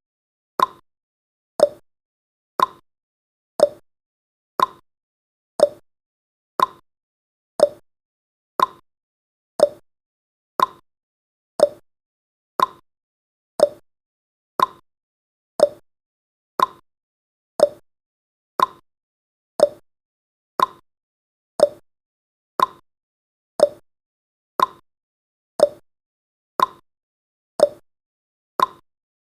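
Countdown timer's tick-tock sound effect: one short click a second, alternating between a higher and a lower pitch.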